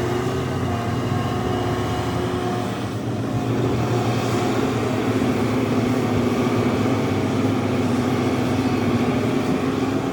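Heavy diesel engines of an excavator and dump trucks running under load. The engine note changes about three seconds in, then holds steady.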